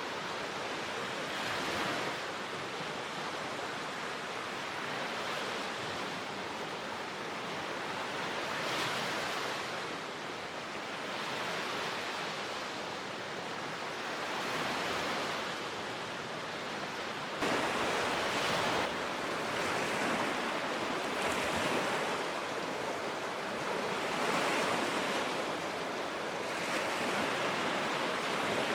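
Lake waves washing in on the shore, a steady rush that swells every few seconds, louder from about two-thirds of the way in.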